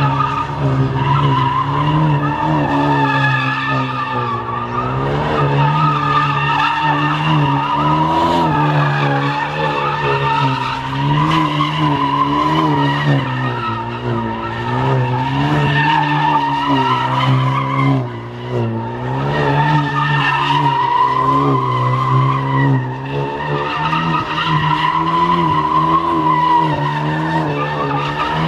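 A car spinning its tyres, a continuous loud tire squeal that wavers in pitch, over the engine held at high revs.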